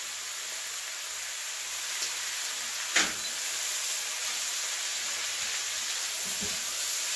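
Sliced mushrooms, peas and carrots sizzling steadily in hot olive oil in a frying pan while being stir-fried. One sharp click about three seconds in and a few soft knocks near the end.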